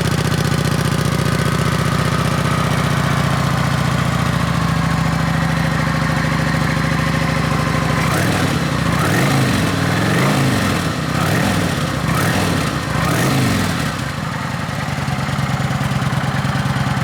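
2019 Kawasaki Vulcan 900 LT's V-twin engine idling through its stock exhaust. About halfway through it is revved several times, rising and falling in pitch, then settles back to a steady idle.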